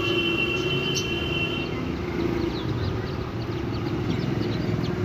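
Ducklings peeping, many short high chirps over a steady low background hum, with a held steady tone in the first couple of seconds.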